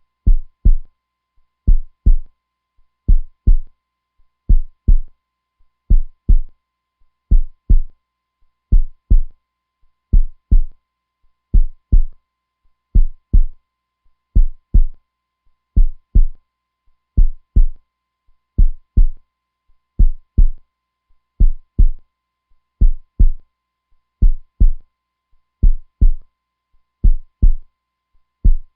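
Heartbeat: a slow, steady lub-dub, each beat a deep double thump, at about 42 beats a minute.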